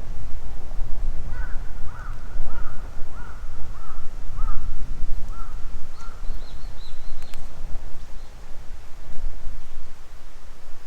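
Wood fire burning in a fire pit, a steady low rumble with a few sharp pops. A bird calls about eight times in quick succession in the first half, followed by a fainter, higher-pitched bird call.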